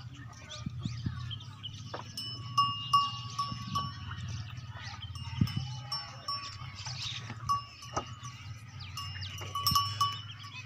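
Livestock bells clinking and ringing irregularly as animals move, over a steady low hum.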